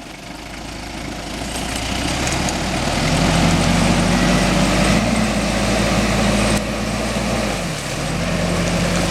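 Off-road SUV engine working under load, getting louder over the first few seconds and then holding steady, with a short drop in revs near the end.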